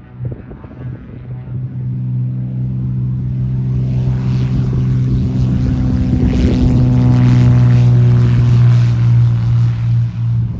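Cirrus SR22T's turbocharged six-cylinder engine and propeller running with a steady drone that grows louder over the first several seconds and then holds, with wind buffeting the microphone.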